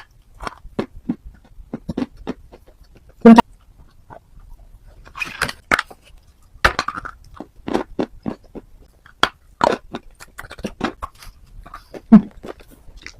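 Close-up biting and chewing of hard, dry chalky pieces: an irregular run of sharp crunches and snaps, with a few loud bites standing out about every three seconds among quieter crumbling.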